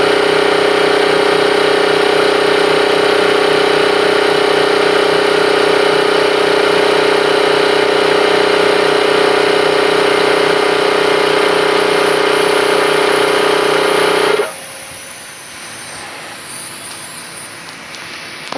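Bauer Junior II E high-pressure compressor running steadily during a pressure test, with a strong even drone, then cutting off suddenly about fourteen seconds in. A quieter, even hiss-like noise continues after it stops, with a brief knock near the end.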